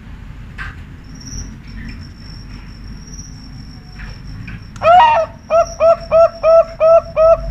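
Zebra dove (perkutut) singing: a loud opening note about five seconds in, then a quick even run of short cooing notes, about three a second. A thin, steady high-pitched tone runs underneath from about a second in.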